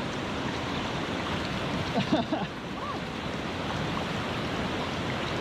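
Steady rushing of a river flowing over its bed, a constant even wash of water noise, with faint voices briefly about two seconds in.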